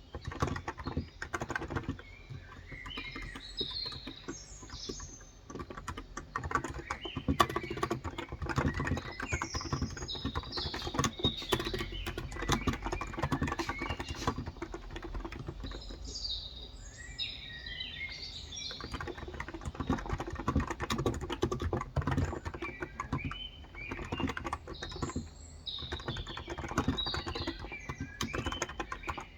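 Steady typing on a Cox Endeavor tenkeyless electrostatic capacitive keyboard with 35 g switches: a dense run of soft keystrokes. Birds chirp in the background at intervals.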